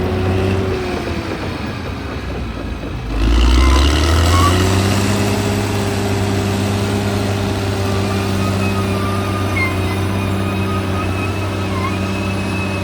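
Caterpillar bulldozer's diesel engine running steadily. About a second in its pitch sags. Around three seconds in it surges loudly and climbs back up to an even, working pitch, with a thin high squeal wavering over it.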